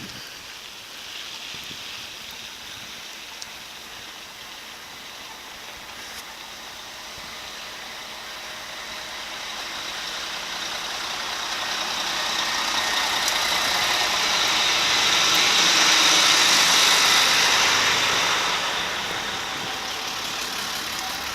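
A motor vehicle approaching and passing on a snowy road: engine and tyre hiss swell slowly, are loudest about three-quarters of the way through, then fade.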